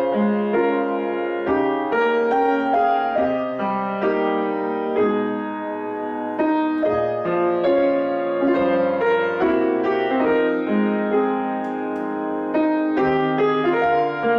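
Solo piano playing a slow melody over held chords, a new note or chord struck about every half second.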